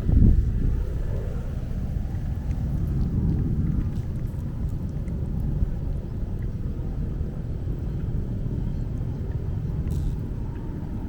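Aeroplane passing overhead: a steady low rumble that swells briefly just after the start, then slowly eases off.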